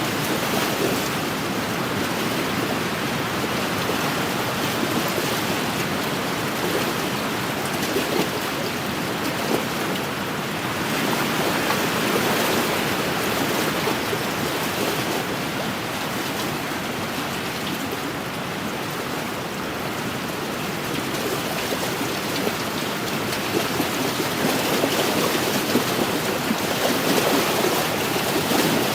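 Small wind-driven lake waves lapping and splashing on the shore, a steady wash that swells and eases, with brief louder splashes now and then.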